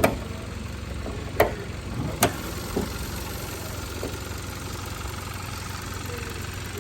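Hyundai Veloster Turbo's 1.6-litre turbocharged four-cylinder engine idling steadily, with three sharp knocks in the first two and a half seconds and two fainter ones after.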